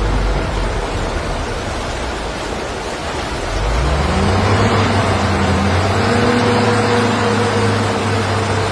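A heavy truck's engine revs up about a third of the way in and then pulls steadily under load, easing off near the end, over a loud steady rushing noise.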